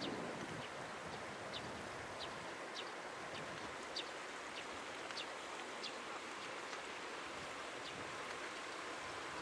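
A bird giving short high chirps over and over, about one every half second to second, over a steady outdoor hiss.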